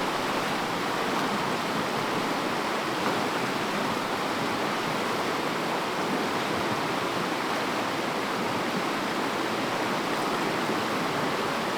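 River water rushing over rocks in fast rapids: a steady, even rush with no breaks.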